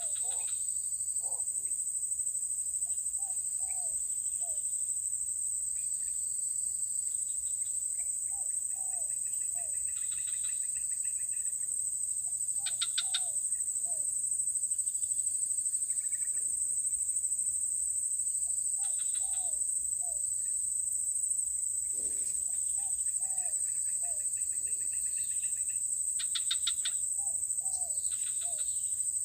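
Steady high-pitched insect drone, with birds calling over it: short falling notes in groups of three or four, repeated every few seconds, and now and then a rapid pulsed trill.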